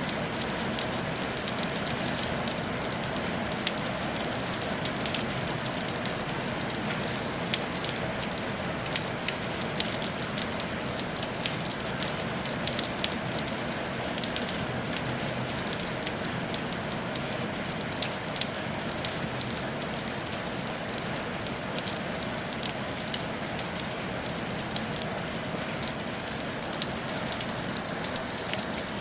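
Steady rain falling on a tile roof: an even hiss dotted with many sharp ticks of individual drops.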